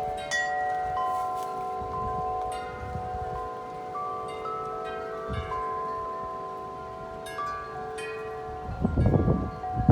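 Metal tube wind chimes ringing in strong gusty wind, tubes struck again and again so that several long ringing tones overlap. Near the end a gust buffets the microphone with a low rumble.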